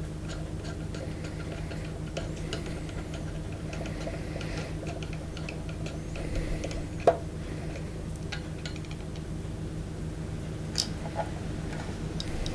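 Small metallic clicks and ticks of a thin Phillips screwdriver working screws out from between a bracket inside a DAC's metal chassis, with a sharper click about seven seconds in and another near eleven seconds.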